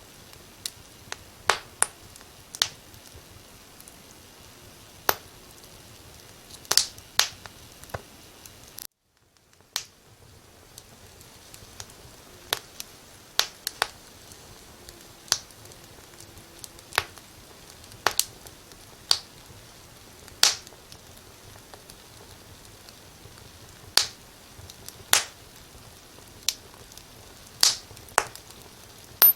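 Wood fire in a fireplace crackling, with sharp, irregular pops every second or two over a steady low hiss. The sound cuts out for about a second roughly a third of the way in, then fades back.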